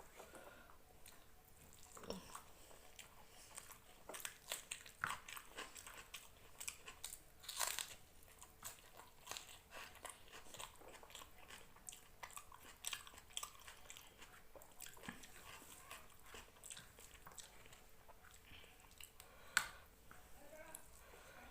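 A person chewing rice and chicken curry, heard close up: many small, irregular wet clicks and smacks of the mouth, with one sharper click near the end.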